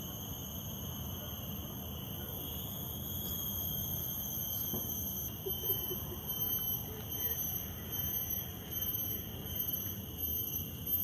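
Insects droning in forest: a steady high-pitched whine that starts pulsing about five seconds in.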